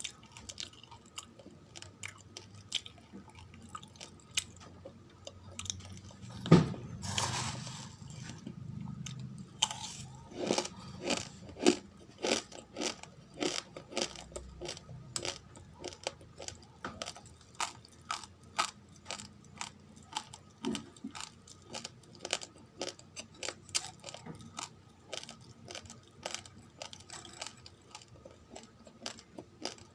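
Raw, uncooked rice grains being chewed close to the microphone: a steady run of sharp crunches, about two a second, with one louder bite about six seconds in.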